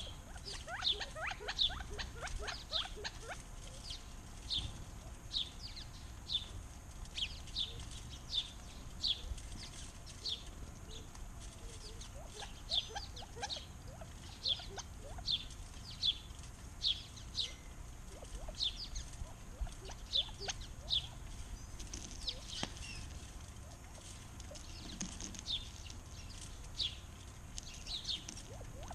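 Small backyard birds chirping: short, high notes that slide downward, repeated about once or twice a second, with a few fainter, lower calls mixed in during the first few seconds.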